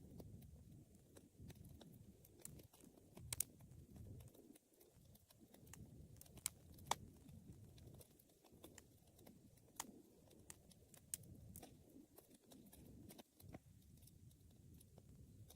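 Wood fire crackling: a soft low rumble of burning with scattered sharp pops and snaps from the burning wood, the loudest a few seconds in and again about seven seconds in.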